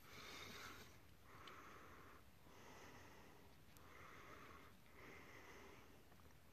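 Faint, even rhythm of heavy breathing close to the microphone, about five breaths, each lasting under a second.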